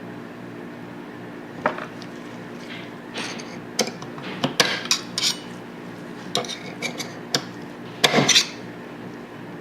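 Irregular metallic clicks and clinks of steel pistol parts and tools being handled while a Tokarev TT-33 is put back together, with a short rapid run of clicks in the middle and the loudest clatter near the end.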